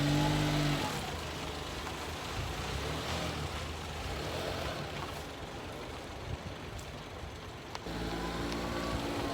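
A motor vehicle running, a steady rumbling noise with a hiss over it. The tail of a music track fades out under a second in, and steady tones come back in near the end.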